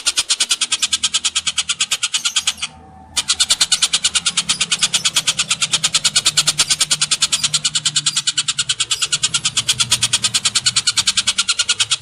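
Looped bird-song training (masteran) recording of tengkek buto, cililin and canary calls: a rapid, even chatter of sharp, high notes, about ten a second, briefly broken about three seconds in, over a faint low hum.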